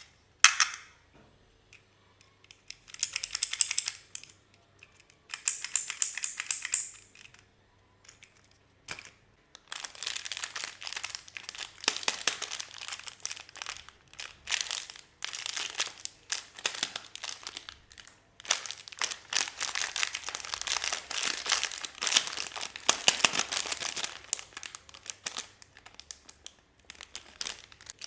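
Packaging wrapper crinkling and tearing as it is handled and pulled open. A sharp click comes just after the start, then two short bursts of crinkling a few seconds in, then almost continuous crinkling from about ten seconds in until shortly before the end.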